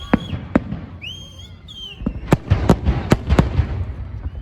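Fireworks exploding: sharp bangs with a low rumble beneath, a couple early on and then a quick run of bangs about two seconds in.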